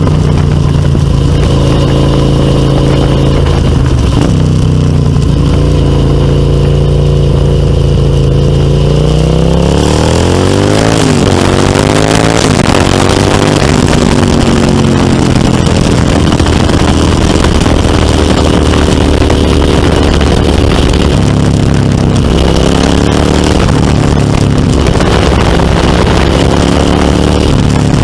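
Suzuki SV650's V-twin engine running through a MIVV Storm Oval slip-on exhaust: steady at first, then the revs climb about ten seconds in with a couple of quick rises and falls before settling into steady running, with another brief rise and fall near the end.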